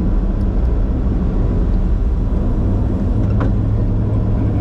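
Steady low rumble inside the Bombardier Challenger 605's flight deck under takeoff thrust: its two General Electric CF34 turbofan engines and the rush of air around the cockpit.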